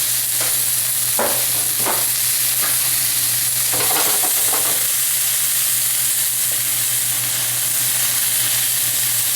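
Chicken pieces sizzling in hot oil in a frying pan, a steady hiss. There are several light knocks and scrapes of a utensil in the pan in the first five seconds, over a steady low hum.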